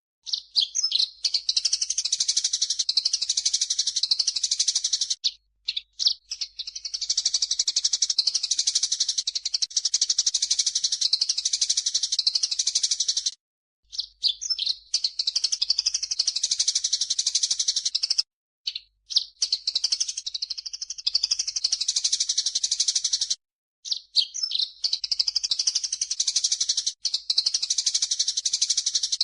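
Eurasian tree sparrows and cucak jenggot (grey-cheeked bulbul) singing and chirping together in a dense, rapid, high-pitched stream. The long bouts stop abruptly for brief gaps about 5, 13, 18 and 23 seconds in.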